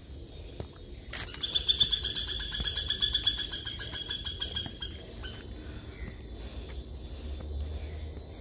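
A bird calling in a loud, fast, even trill that starts about a second in and lasts nearly four seconds, then stops.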